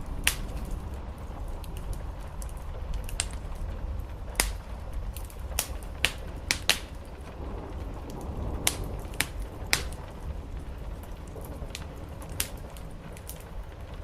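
Wood fire crackling, with irregular sharp pops scattered through, over a steady low rumble.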